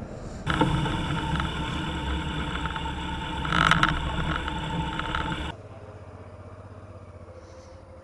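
Motorcycle engine running steadily at low speed, swelling louder briefly about halfway through. About two-thirds of the way in it cuts abruptly to a much quieter, steady low hum.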